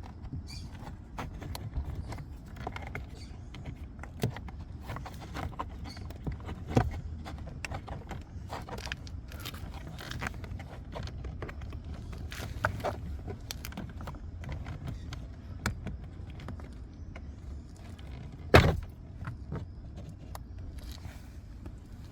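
Irregular clicks, taps and knocks of hands and tools working on car interior parts, over a steady low rumble; one sharp knock about three-quarters of the way through is the loudest.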